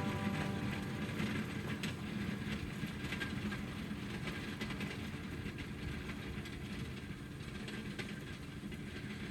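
John Deere tractor running steadily while its box blade scrapes over loose gravel, with a continuous clatter of rattling stones and metal. Background music fades out in the first half second.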